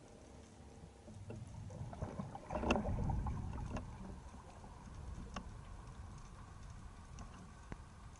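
Underwater noise through a camera housing: a low rumble of moving water with scattered sharp clicks, and a louder rush of noise about two and a half seconds in.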